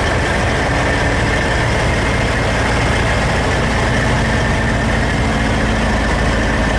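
Heavy truck engine idling steadily, a continuous low rumble.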